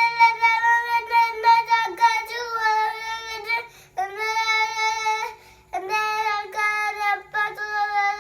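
A child singing solo, holding long, steady notes in phrases separated by short breaths.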